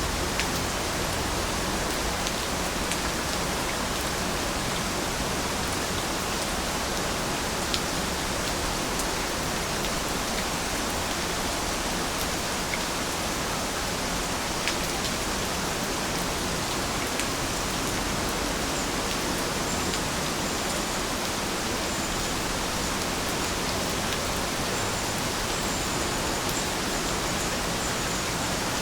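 Steady rain falling: a dense, even hiss with a few louder individual drops landing now and then.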